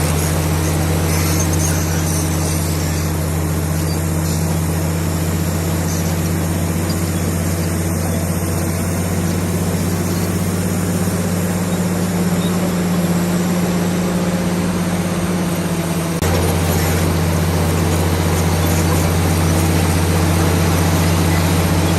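Komatsu D65PX bulldozer's diesel engine running with a steady low drone. About two-thirds of the way through, the drone changes abruptly and gets a little louder.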